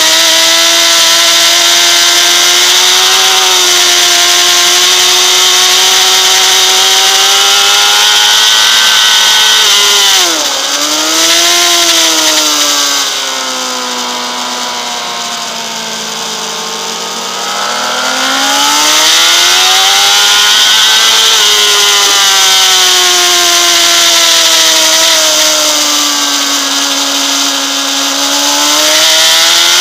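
Honda CBR600RR's inline-four engine running at high revs on track, its pitch high and steady, with a brief dip about ten seconds in, then falling and quieter for several seconds as the throttle is rolled off for a corner before climbing again. Steady wind rush on the bike-mounted microphone.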